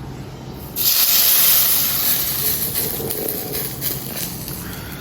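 Hot cooking oil sizzling loudly as something is added to it. It starts suddenly about a second in and slowly dies down.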